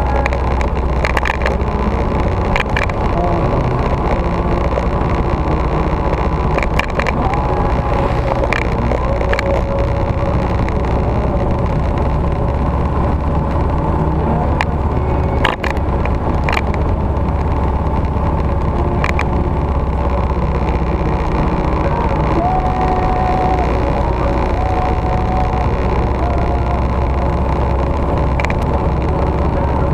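Victory motorcycle's V-twin engine running steadily while riding, with low wind rumble and road noise.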